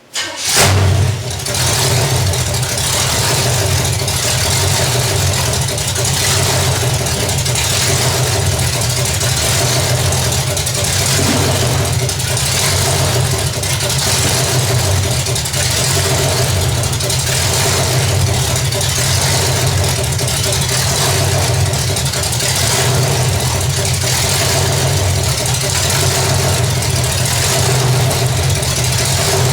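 Small-block Chevy 350 V8 with an RV cam running at a steady idle through open upright headers, loud and even, after a brief break at the very start.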